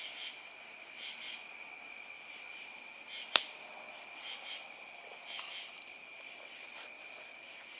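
Crickets chirping steadily, with one sharp snap about three and a half seconds in.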